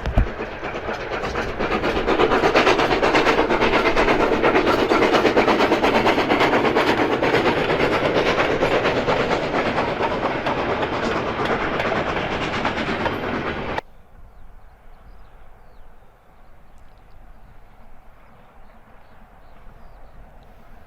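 Steam-hauled train passing, its wheels clattering over the rail joints. It swells about two seconds in, holds loud and steady, then cuts off suddenly about two-thirds of the way through, leaving a quiet outdoor background.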